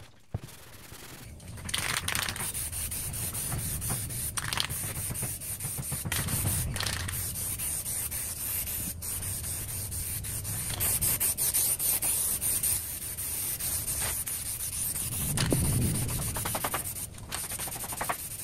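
Steady rasping, abrasive rubbing noise with a strong hiss, starting about a second and a half in, with uneven louder strokes.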